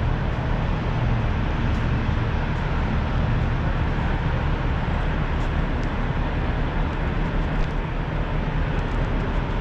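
Steady low rumble and hiss of background noise, with a few faint scattered clicks, likely a busy car show hall on a setup day with vehicles and trucks being moved in.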